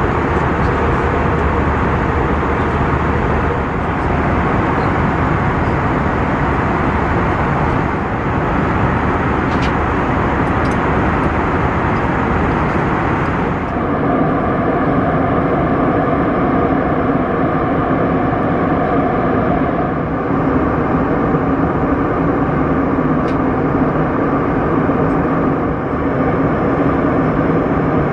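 Steady jet-engine and airflow noise inside the cabin of an Airbus A321. About fourteen seconds in the sound changes abruptly, the hiss dropping away and a steadier hum with several held tones taking over.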